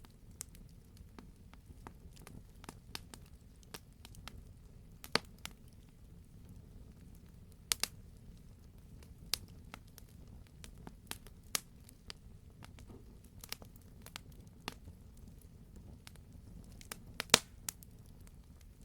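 Wood fire burning: scattered sharp crackles and pops over a low, steady rumble of flame, with a few louder pops, the loudest near the end.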